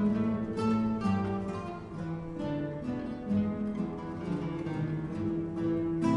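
Ensemble of acoustic guitars playing a tune together, plucked melody notes over a moving bass line.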